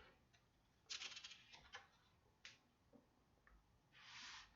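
Near silence: room tone with a few faint clicks and a soft breath-like hiss near the end.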